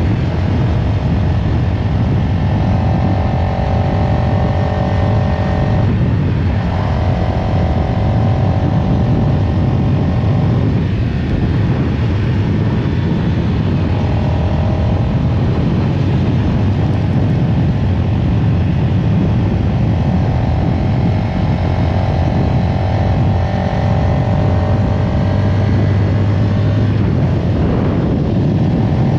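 CFMoto CLX-700 Heritage's 693 cc parallel-twin engine running loudly with a deep rumble. It holds a steady note for several seconds at a time, with the pitch shifting in between.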